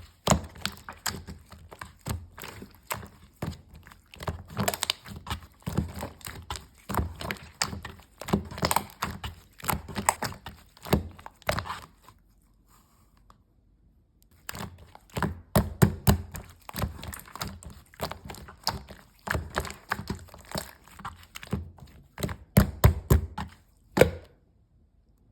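Light green slime being squished and pressed by hand, making many quick clicks and pops. There is a pause of about two seconds midway, and the sound stops shortly before the end.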